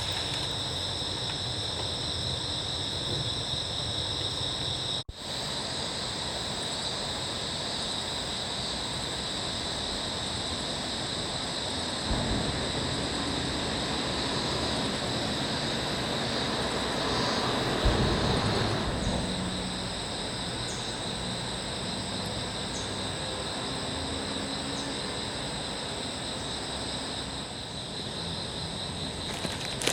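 Steady high-pitched insect chorus, crickets or similar, with a low rumble that builds about midway and fades a few seconds later.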